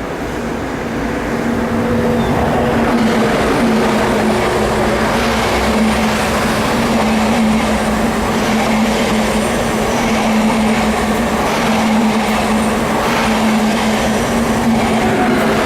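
Electric train running past on the track, with a steady low hum over the rumble of wheels on rails. The sound builds over the first couple of seconds, then holds steady.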